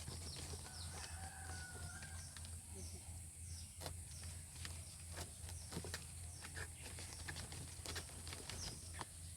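A chicken calls once, about a second in, over scattered light clicks and taps.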